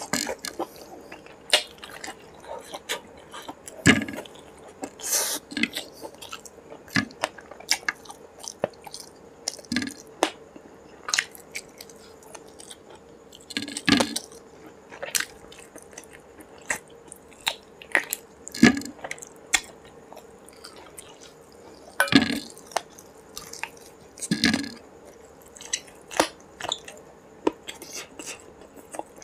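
Close-miked chewing and wet mouth smacks of a man eating chicken leg in curry with his fingers, in irregular, uneven clicks with a few louder smacks.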